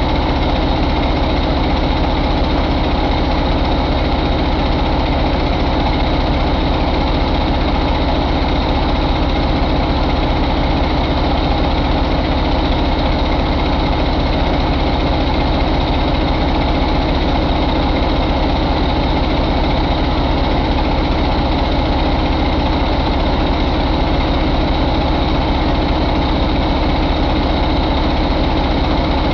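2013 International MaxxForce 11 inline-six diesel engine idling steadily.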